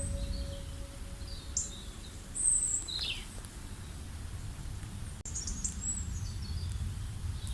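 Birds chirping: scattered short, high chirps and a few quick falling calls over a steady low rumble. A lingering ringing tone fades away in the first second or two.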